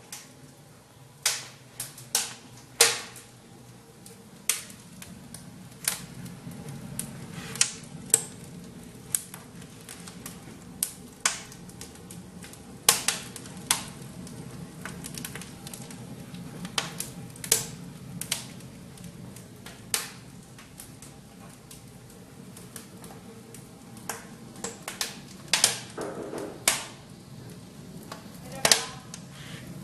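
Wood fire crackling: irregular sharp snaps and pops, one or two a second, over a low steady rush.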